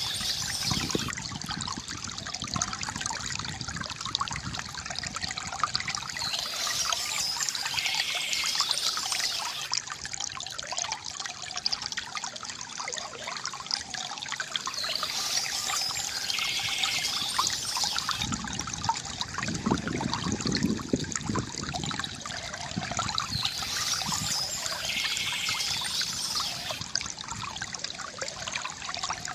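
Bamboo water fountain trickling and gurgling steadily, with a brighter, higher stretch coming back about every eight or nine seconds and a deeper gurgle about two-thirds of the way through.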